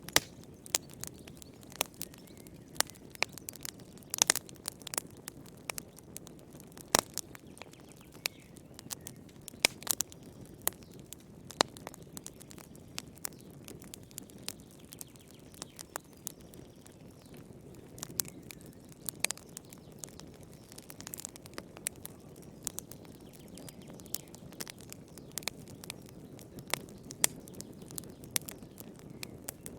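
Wood fire crackling in a fireplace: irregular sharp pops and snaps, one to several a second, over a low steady rush of the flames.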